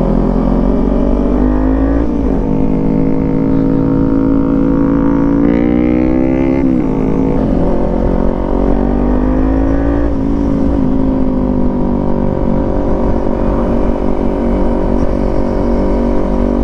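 Kawasaki Z400 parallel-twin with an aftermarket exhaust accelerating through the gears. Engine pitch climbs and drops sharply at upshifts about two and seven seconds in, then holds and eases off as the bike cruises.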